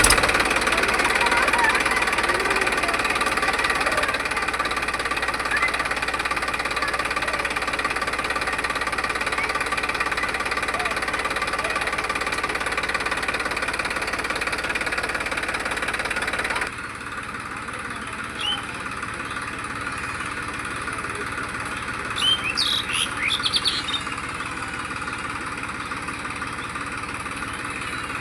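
John Deere tractor's engine running steadily. About seventeen seconds in, the engine sound suddenly turns quieter and thinner, then carries on steadily; a few short high chirps come near the end.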